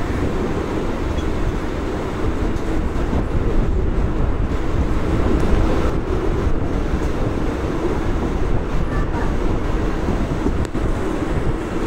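Running noise of a Mumbai suburban local train (EMU) in motion, heard from its open doorway: a steady noise of the wheels on the rails and the moving carriage.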